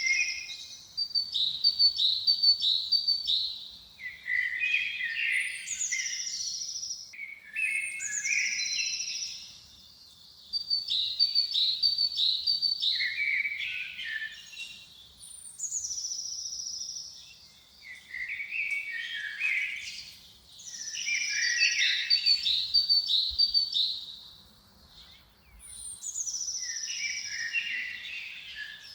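A songbird singing the same song again and again, a phrase every few seconds: each opens with a high falling whistle and runs into quick trilled notes.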